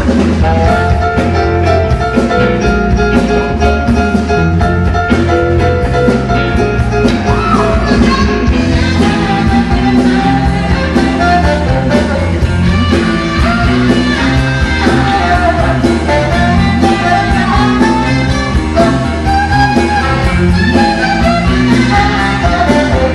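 A band playing a song loudly, with a steady drumbeat, guitar and singing.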